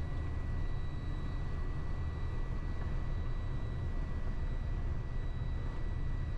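Steady low rumble of a truck's engine and road noise heard from inside the cab while driving, with a faint steady high tone above it.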